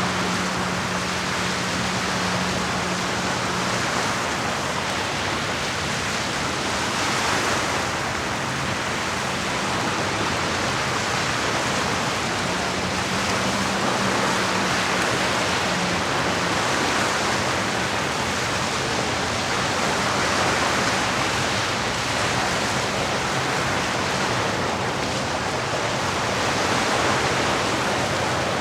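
Steady rushing of lake water against the shore, swelling gently every few seconds. A faint low hum comes in for the first few seconds and again from about twelve to seventeen seconds in.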